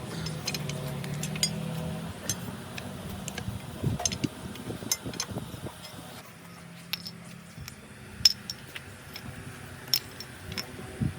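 Light metallic clinks and taps at irregular intervals, like hand tools and small metal parts being handled, over a faint low hum.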